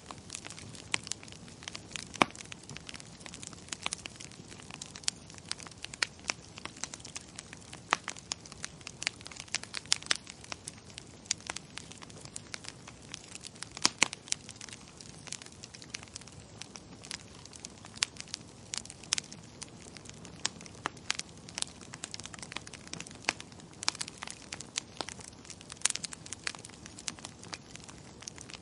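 Wood fire crackling in a fireplace: irregular sharp snaps and pops, several a second with a few louder ones, over a soft low rush.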